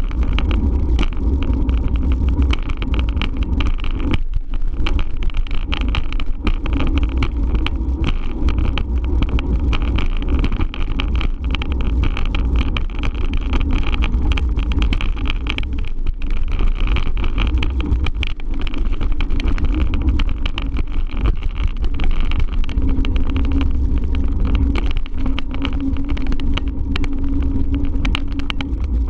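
Wind buffeting the microphone of a moving bike-mounted camera: a steady deep rumble with constant crackle, under a faint hum that grows a little stronger in the last few seconds.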